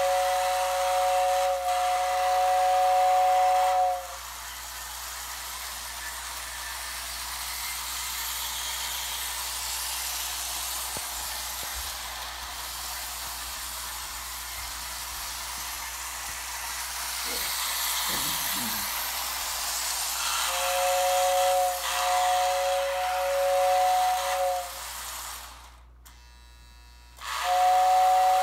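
Lionel model train whistle sounding a steady two-note chord, held for about four seconds, then again about two-thirds of the way through and once more at the very end. Between the blasts there is a steady hiss of the running train.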